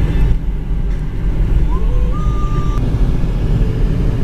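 Steady low rumble of a moving car, with a faint short rising tone about two seconds in; the sound cuts off abruptly at the end.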